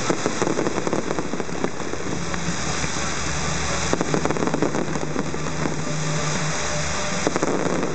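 Fireworks crackling: a dense, rapid patter of small pops like heavy rain, with thicker flurries of louder pops at the start, about four seconds in, and near the end.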